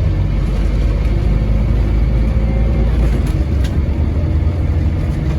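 Scania N230UD double-decker bus's diesel engine running steadily at fairly constant revs, with a couple of light clicks about three and a half seconds in.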